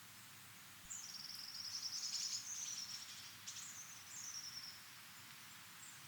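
A songbird sings a high trilled phrase about a second in, followed by two short falling notes, over the steady hiss of wind through trees.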